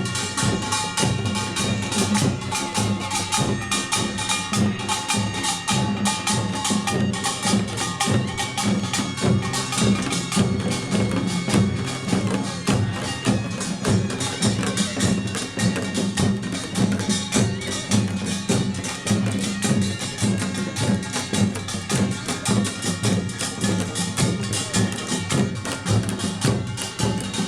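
Korean pungmul percussion band playing: small kkwaenggwari gongs, janggu and buk drums beating a fast, dense, unbroken rhythm, with the ringing of metal gongs over the drums.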